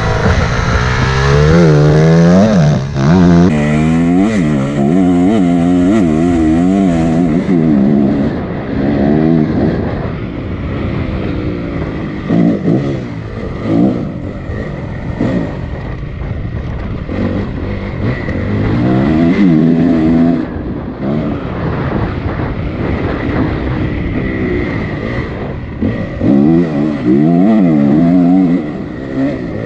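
Honda CRF 250 dirt bike's four-stroke single-cylinder engine being ridden hard, its pitch climbing and dropping again and again as the throttle is opened and shut. It is quieter through the middle and revs loudly again near the end, with wind noise throughout.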